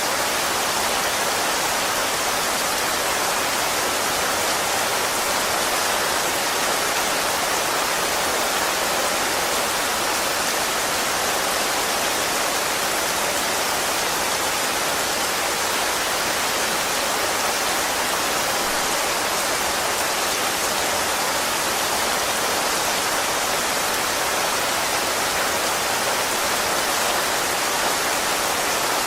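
Steady rain falling, an even hiss with no changes in level.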